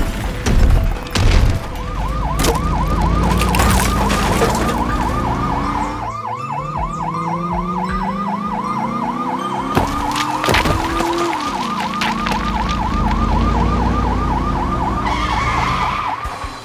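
Toy police car's electronic siren yelping rapidly, about four cycles a second, with a few knocks in the first second or so.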